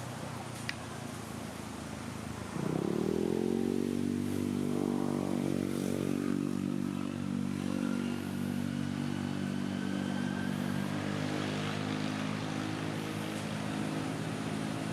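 A motor engine comes in suddenly about two and a half seconds in, its pitch rising quickly and then holding steady.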